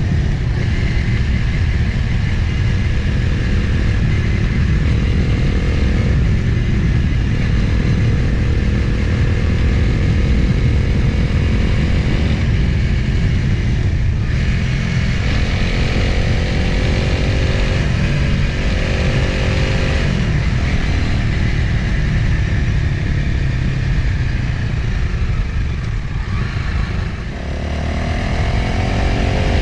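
Motorcycle engine running on the move, with heavy wind rush over the microphone. The engine pitch climbs several times as the bike accelerates through the gears, eases off briefly near the end, then rises again.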